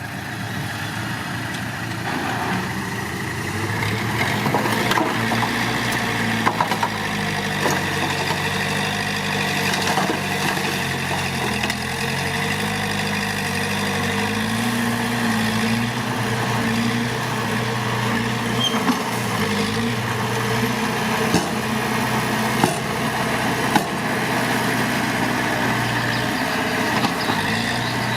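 Heavy diesel earthmoving machinery running under load, its engine note rising and falling, with a few sharp metallic knocks. It grows louder a few seconds in.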